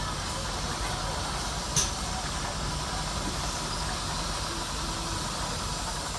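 Steam locomotive with steam hissing over a steady low rumble, and one sharp click about two seconds in.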